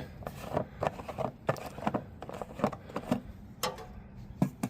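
Irregular light clicks and knocks, a few a second, of hands working at an Ariens Professional 21 snowblower's fuel tank to check the fuel.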